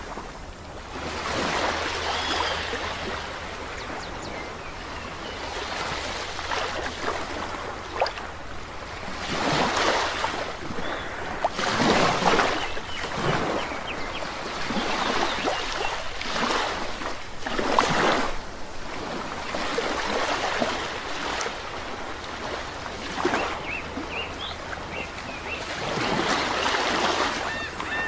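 Sea waves breaking and washing up on a shore, swelling and fading in irregular surges every few seconds, with faint bird calls now and then.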